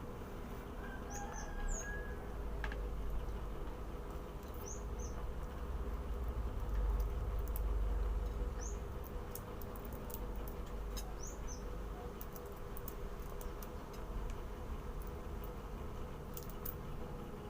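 Small bird chirping: short high chirps in twos and threes, repeating every few seconds, over a steady low rumble.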